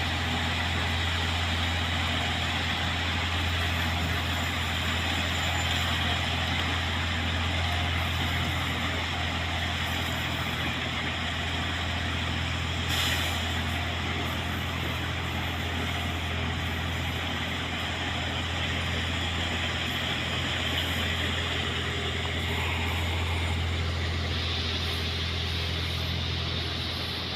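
Railway vehicle's engine running steadily: a deep, constant hum under an even rushing noise, with one sharp click about halfway through.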